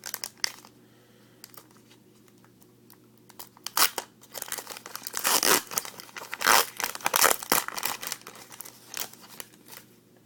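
A trading card pack's wrapper being torn open and crinkled, in a run of sharp crackling rustles that starts about four seconds in after a quiet stretch.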